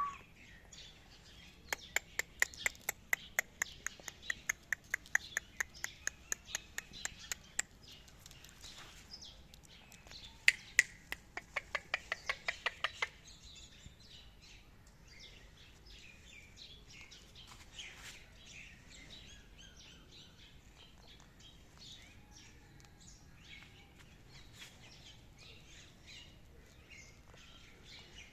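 Ringneck parrot giving a rapid run of sharp, clicking calls, about four or five a second, for some six seconds, then a shorter run a few seconds later. Faint scattered chirps follow.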